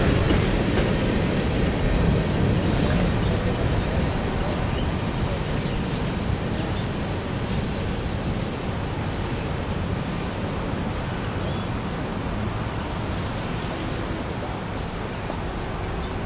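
Freight train cars rolling away on the rails: a steady rumble of wheels on track that slowly fades as the train recedes.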